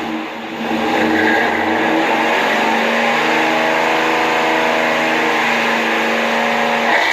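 1996 Chevy truck's engine and exhaust revving up about a second in, then held at steady revs for several seconds before letting off near the end.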